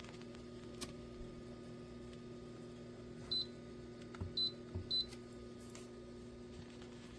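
Three short, high electronic beeps, about three to five seconds in, with a soft knock just before the second and third, over a steady low hum: the touch buttons of a ROSEKM ultrasonic cool-mist humidifier being pressed while it runs.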